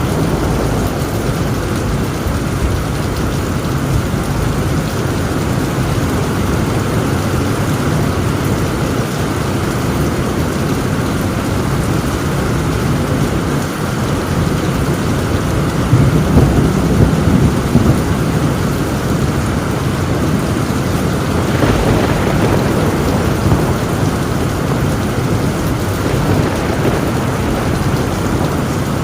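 Heavy rain pouring steadily on a tin roof, with a low rumble of thunder that swells louder about halfway through.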